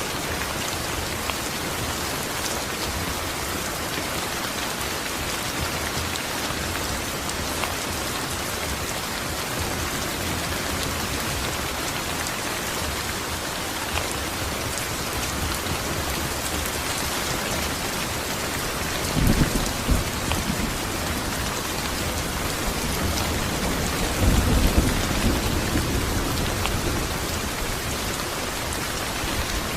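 Steady rain falling, with a constant hiss of drops. Low rumbles of thunder come twice in the second half, the later one longer and louder.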